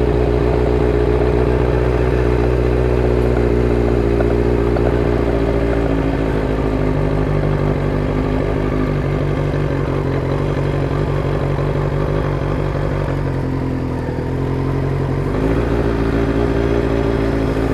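Motorcycle engine running steadily under way. Its pitch drops about six seconds in and rises again about fifteen seconds in.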